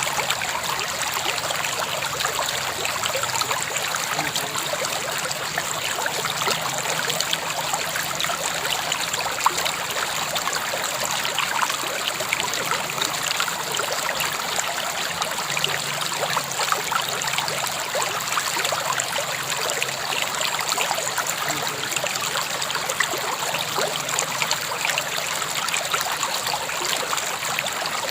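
A river flowing, with steady rushing and trickling water.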